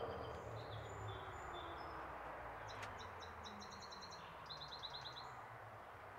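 Small birds chirping: a few scattered short calls in the first two seconds, then two quick runs of rapid chirps around the middle, over steady low background noise. A single faint click comes about three seconds in.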